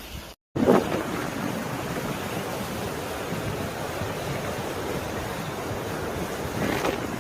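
Strong blizzard wind rushing steadily over the microphone, coming in abruptly after a brief cut and swelling in a stronger gust near the end.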